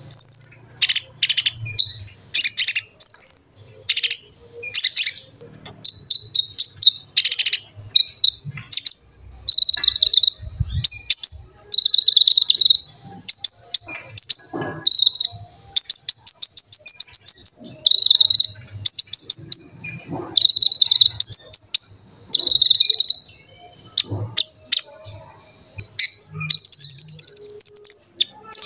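Kolibri ninja (konin) sunbird singing: quick runs of high, sharp chirps and rapid buzzy trills, phrase after phrase with short pauses between.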